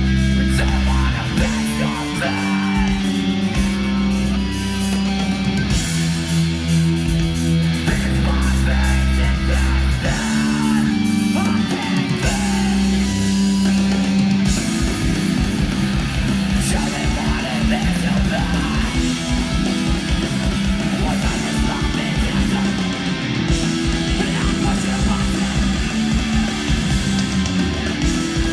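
Hardcore punk band playing live: distorted electric guitars, bass and drums, with the low notes shifting every second or two under steady, dense drumming.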